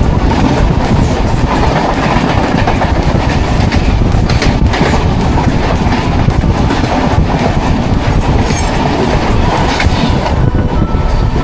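Express train running at speed: a loud, steady rumble of wheels on rails, with frequent clicks and clatter over the rail joints.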